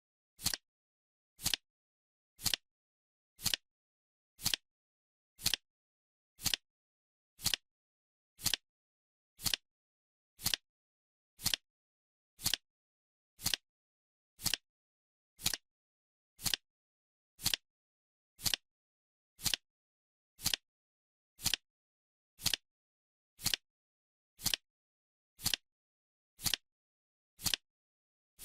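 Clock-style ticking, one short, sharp tick every second, with silence between the ticks.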